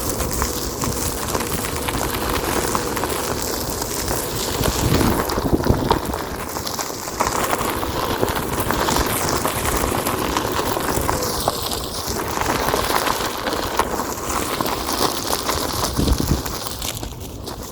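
Onewheel electric board rolling along a dirt-and-gravel forest trail: its single tyre crunches and crackles steadily over loose ground, with many small ticks of grit under the tyre.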